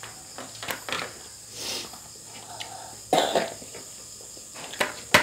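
Table-side eating sounds: crab and shrimp shells being picked apart by hand, with small clicks and crackles, and one louder short cough-like burst about three seconds in, over a steady faint high-pitched tone.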